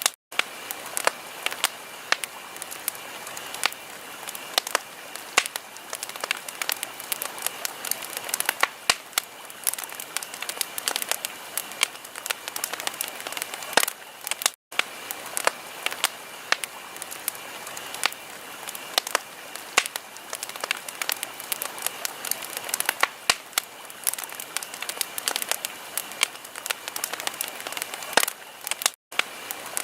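Wood fire crackling: a dense run of sharp, irregular pops over a steady hiss. The sound cuts out for an instant three times, at the start, about halfway through and near the end.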